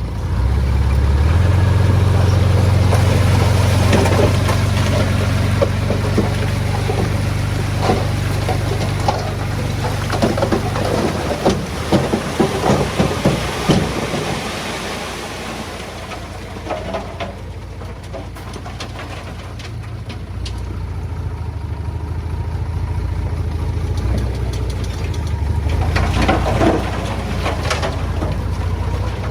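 Heavy diesel engine of earthmoving machinery revs up and works under load, with a burst of stone clattering and knocking in the middle. The engine eases off, then revs again near the end with more clatter.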